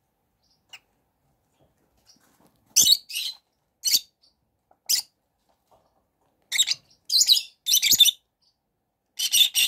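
Young chickens cheeping: a series of short, high-pitched calls starting about three seconds in, coming faster toward the end.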